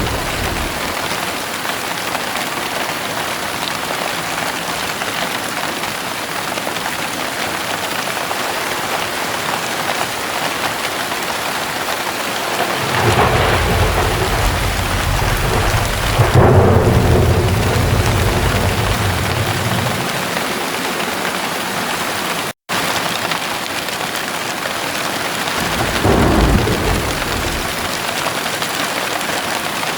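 Heavy rain falling steadily, with a long rolling rumble of thunder about halfway through and a shorter rumble near the end. The sound cuts out for an instant between the two rumbles.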